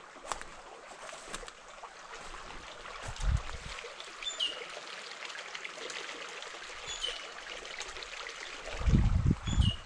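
Freshwater creek running and trickling steadily, with a bird calling three times, each call a short high note followed by a falling one. A low rumble about three seconds in and a louder one near the end.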